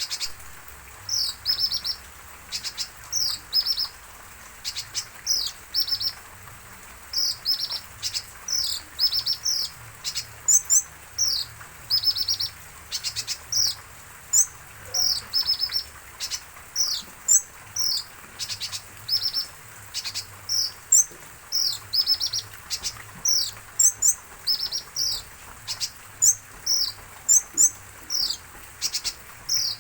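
Kolibri ninja sunbird chirping over and over: sharp, high down-slurred notes, each running into a quick trill, about one phrase a second.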